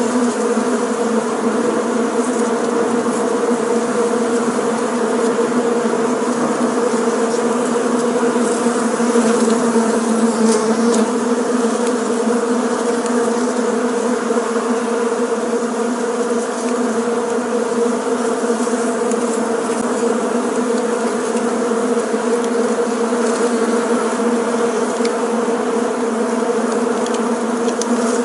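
Many bees buzzing together, a dense steady hum pitched around 230 Hz with its overtones, from a swarm or hive. A few faint ticks sound over it.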